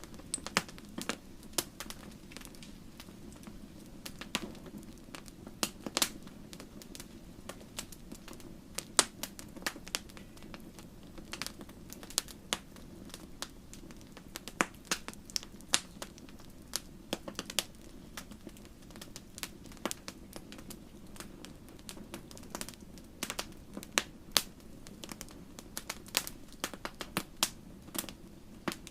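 Wood fire burning in a fireplace: irregular sharp crackles and pops, several a second at times, over a steady low rush of the flames.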